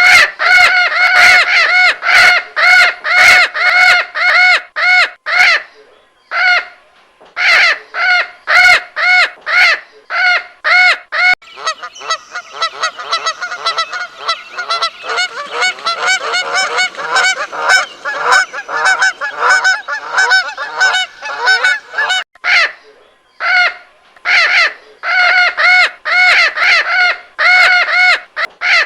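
Birds calling: runs of short, pitched calls repeated about three a second, broken by brief pauses, with a dense chorus of many overlapping calls through the middle.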